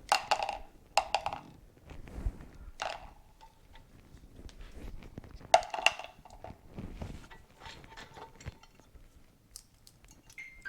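Loose steel steering-head bearing balls dropping out of a motorcycle's steering stem and clinking and rattling onto metal and the bench, in several separate clattering bursts. The loudest bursts are at the start and about six seconds in.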